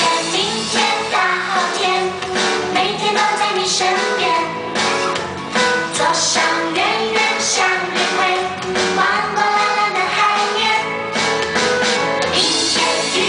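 A song playing: singing voices over a full instrumental backing with a steady beat.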